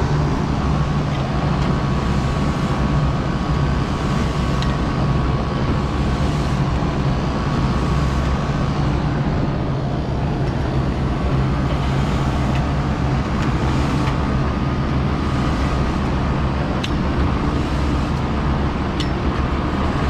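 Commercial ice machine's refrigeration unit running: a steady hum of compressor and fan with a faint whine above it.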